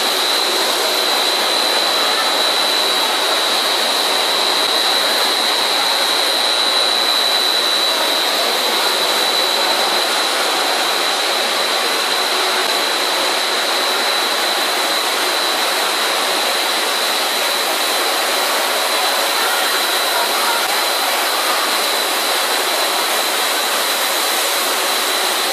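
Twin-screw core-filling snack extruder line running: a loud, even machine noise with a steady high whine over it.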